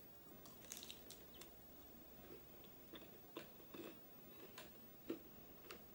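Faint chewing of a bite of vegetable samosa: soft, irregular mouth clicks and smacks, with one slightly louder smack about five seconds in.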